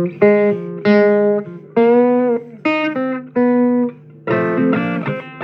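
Guitar playing an instrumental phrase of single plucked notes, each struck and left to ring, over a steady low backing note. A quicker cluster of notes comes near the end.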